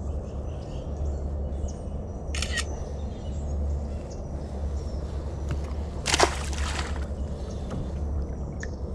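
Steady low rumble of outdoor ambience, like wind on the microphone. A short, sharp hiss comes about two and a half seconds in, and a louder noisy swish, like water splashing, about six seconds in.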